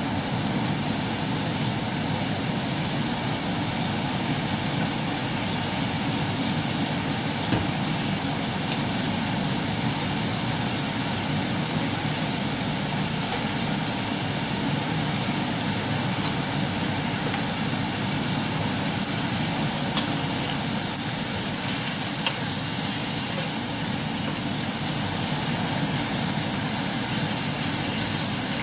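Steady sizzle of chicken and asparagus stir-frying in a wok over a constant low hum, with a few light taps of a wooden spatula against the pan.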